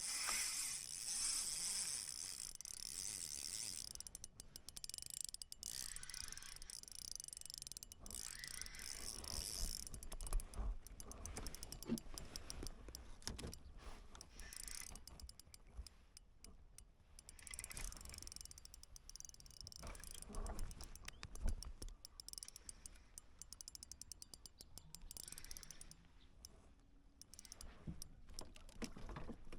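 Fishing reel being cranked, its gears giving a steady fine clicking whir, with a few low thumps.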